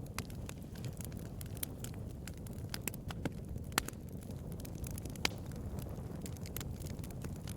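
Wood fire burning: a steady low rumble of flames with irregular sharp crackles and pops, two louder pops about four and five seconds in.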